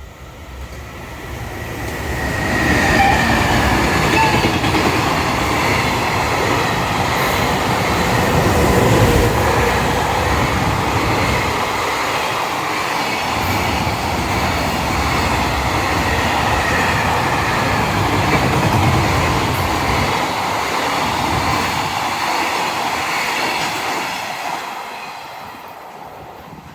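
A train passing on the rails. The sound builds over the first few seconds, holds steady for about twenty seconds, then fades away near the end.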